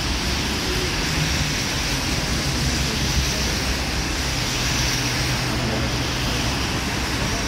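Steady hiss of heavy rain and of tyres on a waterlogged road, with a low rumble of passing traffic; a low engine hum comes in briefly past the middle.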